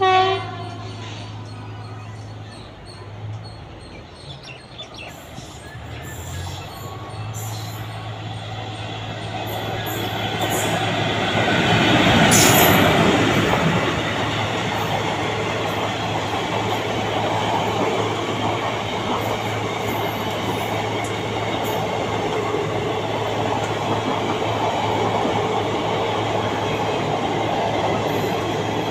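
Express train approaching and passing through the station: a short horn note at the start, then a rumble that builds to its loudest as the locomotive goes by about twelve seconds in, then the steady rolling and clatter of passenger coaches on the rails.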